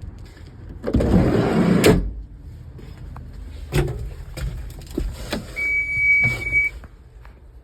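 Knocks and clunks with a short rush of noise, then a single steady high electronic beep lasting about a second, typical of someone getting into a machine's cab and turning the key on before starting it.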